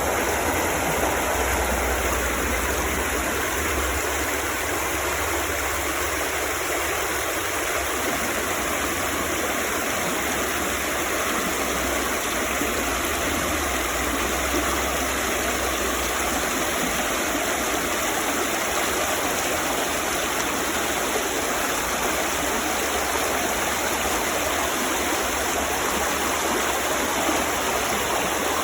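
A woodland stream running, a steady rush of flowing water.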